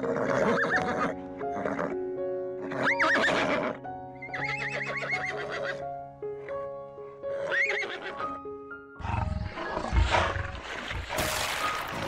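Horses neighing: four whinnies with a shaking, wavering pitch, over background music with held notes. In the last few seconds a rougher, noisier sound with a deep rumble takes over.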